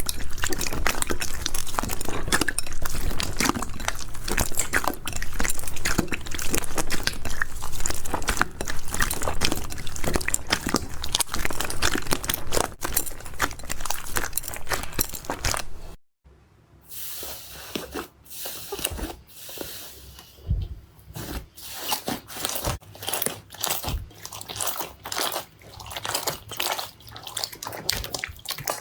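Hands squeezing and pressing crunchy slime, a dense run of crackling crunches. About sixteen seconds in, it cuts to a quieter stretch of sparser pops and squishes.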